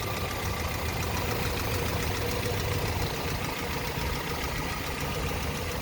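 A 1987 Toyota pickup's engine idling steadily, running smooth and even, like a little sewing machine.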